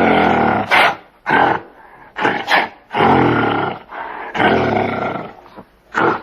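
An animal's deep, repeated calls: several long ones about a second each, with shorter calls between them and a last short one near the end.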